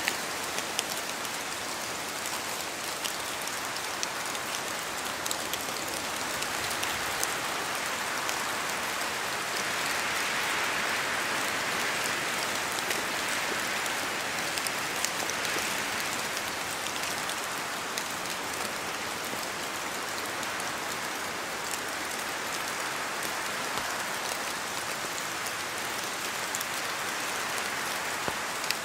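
Steady rain in a forest, with many individual drops pattering and ticking as they fall from the trees, swelling a little about a third of the way in.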